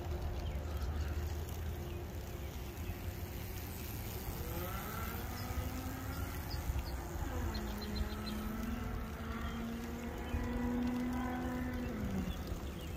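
A vehicle engine revving: its pitch rises about four seconds in, drops sharply near seven seconds, holds steady, then falls away near the end. Under it are wind rumble on the microphone and a steady motor whine from the e-bike.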